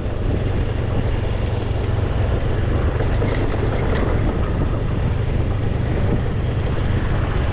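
Motorbike running steadily while being ridden, with wind buffeting the microphone.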